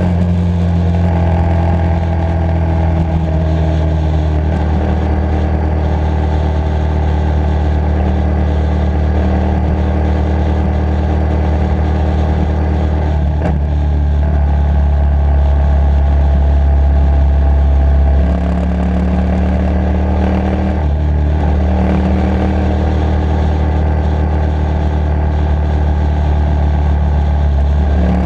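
Motorcycle engine running at road speed, heard from the bike itself, with engine note and loudness shifting a few times. The loudest stretch builds up and then drops suddenly about 18 seconds in, as the throttle is rolled off or the gear changes.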